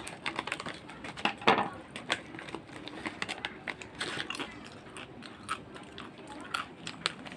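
Irregular crisp crackles and crunches from squash vegetable chips being handled and bitten.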